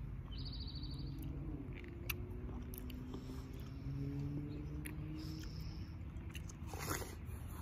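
Close-up wet bites and chewing of juicy watermelon, heard as a few short crunchy clicks, the strongest near the end. A low steady hum lies underneath.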